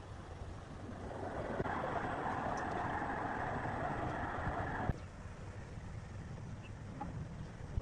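Woodworking machinery running with a steady hum. A louder rasping cut into wood starts about a second and a half in and stops abruptly near the five-second mark.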